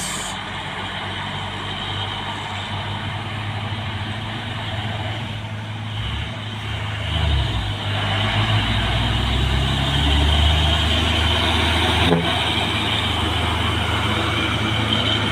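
Fuso truck's diesel engine working hard on a steep uphill restart. Its note rises and grows louder about seven to eight seconds in as the truck gets going, with a single short knock near the end.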